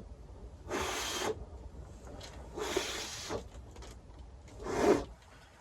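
A man blowing three times on a freshly baked sweet potato that is too hot to eat: three short, breathy puffs a couple of seconds apart.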